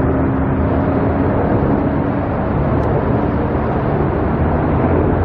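Steady engine drone with a low hum, continuous and unchanging throughout.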